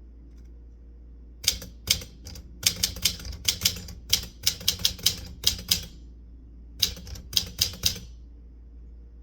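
Typewriter keys striking in two irregular runs of typing, a short pause of about a second between them.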